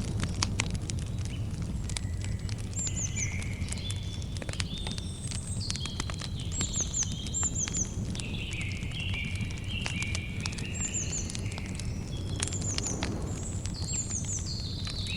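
Campfire crackling with frequent sharp pops over a low steady rumble, while birds sing: series of whistled notes stepping downward, and quick repeated chirps.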